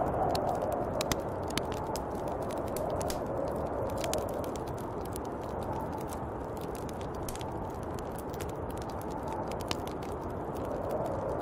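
Snowstorm wind blowing steadily, swelling in gusts near the start and again near the end, with scattered light ticks throughout.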